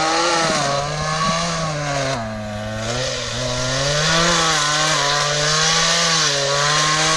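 Two-stroke chainsaw running at high revs while cutting trail brush. Its engine note drops in pitch about two seconds in and climbs back a second later.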